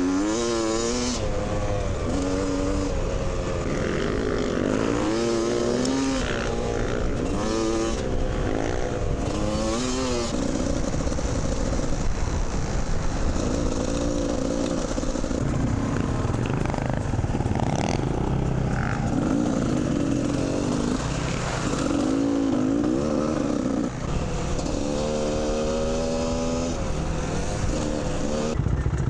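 Dirt bike engine under the rider, revving up again and again and dropping back between the climbs as it shifts through the gears, over a steady low rumble of riding noise.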